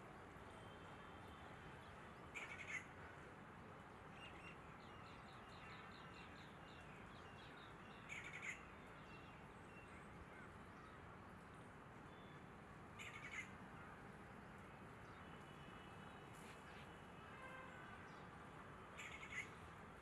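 Faint short bird calls, each a quick double chirp, four times about five to six seconds apart over a soft steady hiss; fainter high trills come in between.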